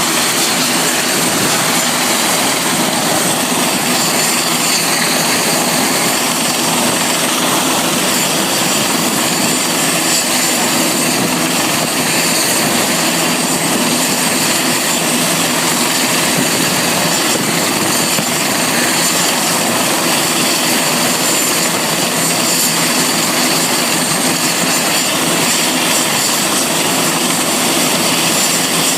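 Helicopter running steadily: a constant loud drone of engine and rotor, with a steady high-pitched whine over it.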